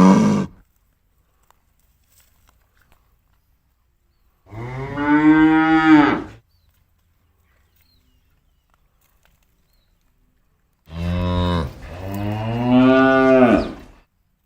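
Cattle mooing in three separate calls. The tail of one moo ends just after the start, a long moo comes about four and a half seconds in, and a two-part moo begins near eleven seconds and runs for about three seconds.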